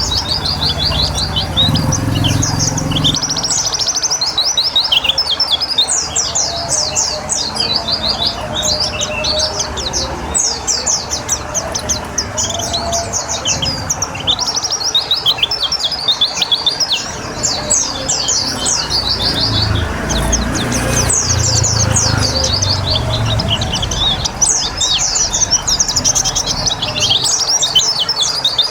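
Pleci (white-eye) singing a long, fast twittering song of rapid high notes, nearly unbroken with only short pauses, over a steady background hiss. Low rumbles come in the first few seconds and again about twenty seconds in.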